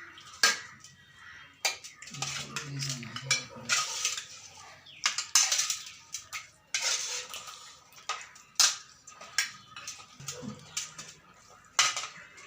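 Dishes and cutlery clinking and scraping: plates and spoons handled at a meal, with scattered sharp clinks and brief low voices in between.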